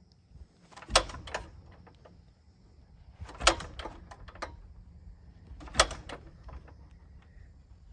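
Piper J-3 Cub's engine being hand-propped without firing: three sharp clacks about two and a half seconds apart, one with each pull of the propeller. The engine does not catch because no fuel has reached it and it needs repriming.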